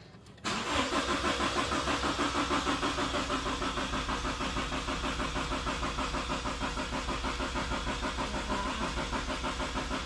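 Toyota GT86/Subaru BRZ's FA20 flat-four being cranked by the starter in flood (prime) mode, throttle held to the floor so it does not fire: a steady rhythmic cranking churn that starts suddenly about half a second in. This is the oil-priming cycle after an oil change, building oil pressure before the first real start.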